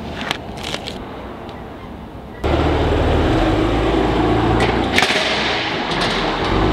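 Vinyl windshield decal crackling as it is peeled off the glass, then from about two and a half seconds in a BMW M4 GTS's twin-turbo inline-six running at low revs as the car pulls slowly away, with one sharp snap about five seconds in.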